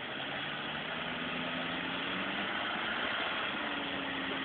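A vehicle engine running steadily at low speed, its pitch rising slightly partway through.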